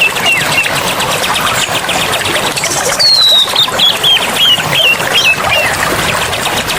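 Forest birdsong: about three seconds in, a bird sings a phrase that opens with a longer falling whistle and runs into a quick series of short hooked notes. Under it runs a fast, even pulsing buzz.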